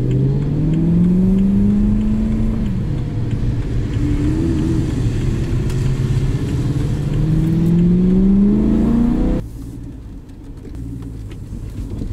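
BMW E92 M3's S65 V8 heard from inside the cabin, pulling up through the revs, dropping sharply about three seconds in as it shifts, then pulling up again. Near the end it falls suddenly to a quieter idle.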